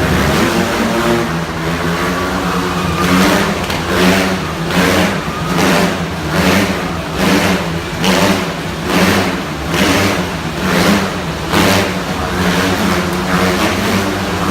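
Several motorbikes revving hard as they circle inside a steel globe of death. Their engine note swells and fades in a steady rhythm, about once every three-quarters of a second, as the bikes loop past.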